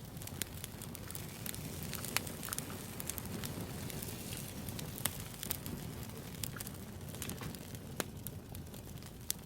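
Campfire crackling: a steady hiss and low rumble with frequent sharp pops and snaps, a few of them louder than the rest.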